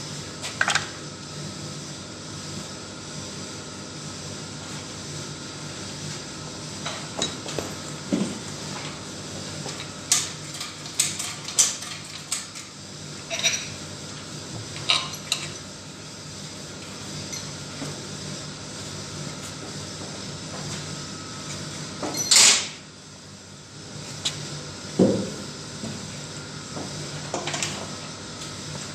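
Scattered metallic clinks and clanks of hand tools and engine parts being handled while an engine is taken apart, over a steady shop hum, with one loud sharp clank about two-thirds of the way through.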